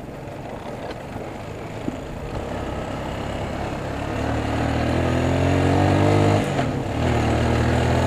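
ATV engine under way: the engine gets louder and its revs climb from about halfway in, break off briefly near the end, then pull steadily again.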